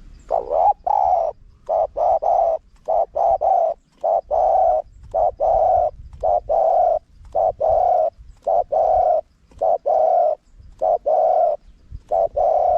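Spotted dove cooing: a run of low, hollow coo notes, some short and paired and some drawn out, repeated with brief gaps. This is a recording of the bird's calling, played to lure wild doves.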